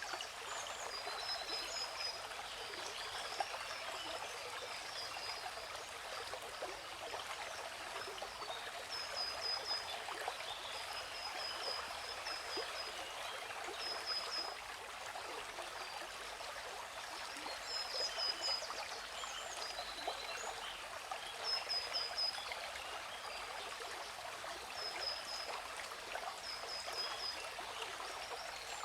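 Waterfall rushing in a steady hiss, with a small bird repeating a short, high, rapid trilled phrase every few seconds.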